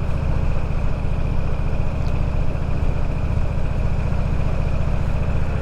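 Motorcycle engine running at a steady speed while riding, its low note constant, with an even hiss of wind and road noise over it.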